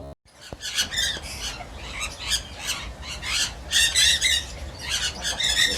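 Bird calling: a fast run of short, harsh calls, about three a second, after a brief gap at the very start.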